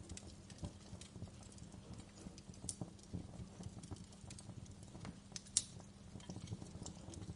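Wood fire crackling in a fireplace: scattered small pops and snaps at irregular intervals over a low steady hum, with one sharper pop about five and a half seconds in.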